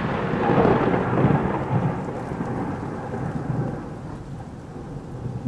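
Thunder rumbling, loudest at first and slowly dying away over a few seconds.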